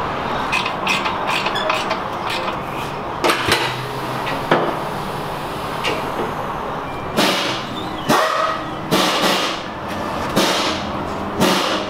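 Shop tool noise during wheel fitting: a few sharp knocks, then five short, harsh bursts about a second apart, typical of a pneumatic impact wrench running lug nuts.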